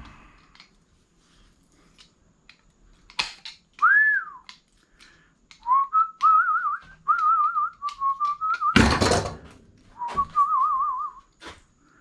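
A man whistling a tune, a single clear tone in short phrases with quick warbling trills. Sharp clicks and one loud clatter, like scrap metal pieces knocking together, break in about nine seconds in.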